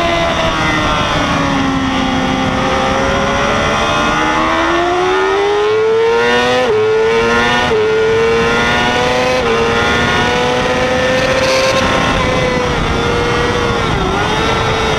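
2006 Yamaha YZF-R6 race bike's inline-four engine at high revs, pulling hard out of a slow corner with its pitch climbing, then shifting up three times in quick succession about seven to nine seconds in. Wind rushes over the bike-mounted camera throughout.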